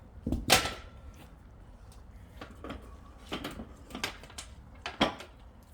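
A run of sharp metallic clanks and knocks from barbell and weight plates being handled, about half a dozen scattered hits, the loudest about half a second in and another near the end.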